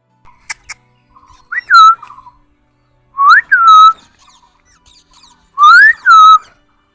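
Pet ringneck parrot whistling three times, each whistle a rising note followed by a falling one that levels off, with a couple of soft clicks just before the first.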